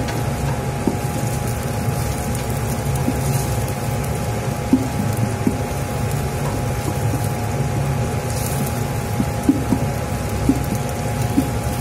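Sliced garlic and onion sizzling in hot oil in a stainless steel pot while a wooden spatula stirs them, with a few brief knocks of the spatula against the pot over a steady hum.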